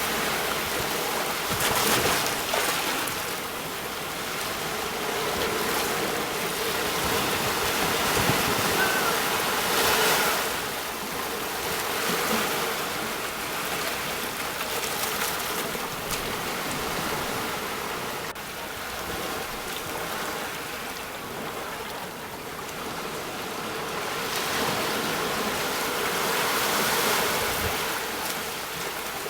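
Sea waves breaking on the shore: a continuous wash of surf that swells and eases every few seconds, with stronger breakers about 2, 10 and 27 seconds in.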